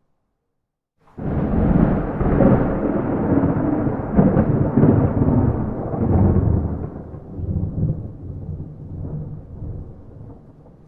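A clap of thunder with no rain: it breaks in suddenly about a second in and rumbles loudly for several seconds, then dies away slowly into a low rolling rumble.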